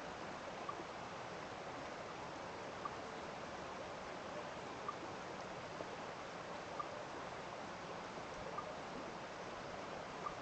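Steady rushing of running water from a small stream, with short, high ticks every second or two.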